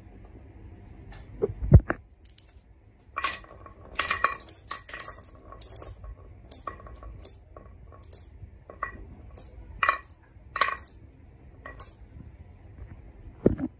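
Marbles clattering down a wooden marble run, a quick irregular series of clicks and clacks against the track, some ringing briefly. A heavier dull thump comes about two seconds in, and another near the end.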